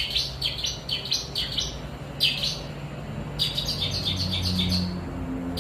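Long-tailed shrike (pentet) singing in quick runs of sharp chirping notes, with a single separate note about two seconds in and a fast run of notes, about eight a second, in the second half.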